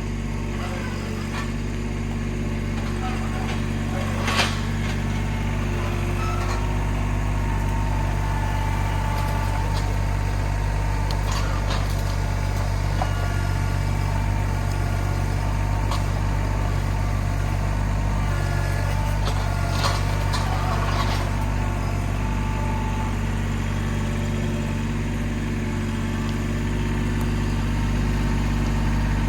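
An engine idling steadily, with a few sharp knocks about four seconds in and again around twenty seconds in.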